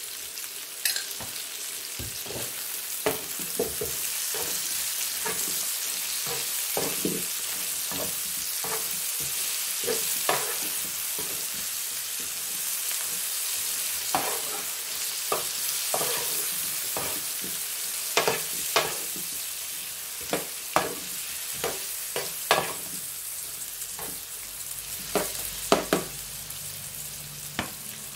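Shrimp, carrots and onion sizzling steadily in hot oil in a pan, with a spatula scraping and knocking against the pan again and again as the food is stirred, the knocks coming more often in the second half.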